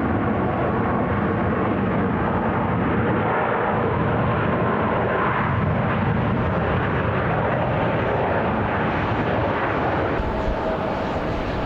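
Steady jet engine noise from a Boeing 737 MAX 8's CFM LEAP-1B turbofans as the airliner arrives to land, easing slightly near the end.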